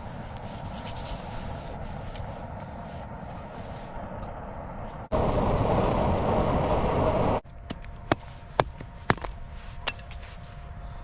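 Small blower fan under a wood-burning stove running with a steady hum, fanning the fire. Partway through, a louder rushing stretch lasts about two seconds. After it come sharp knocks, roughly two a second, over the steady hum.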